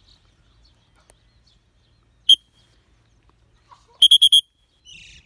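Shrill bird calls: a single sharp chirp about two seconds in, then a quick run of four chirps at about four seconds, with fainter small-bird chirping near the end.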